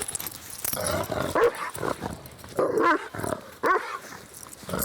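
Angry dog barking about six times at uneven intervals, growling in between.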